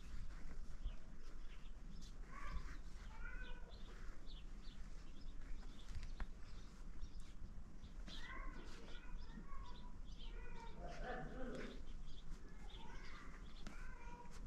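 Birds chirping in short runs of calls that come and go several times.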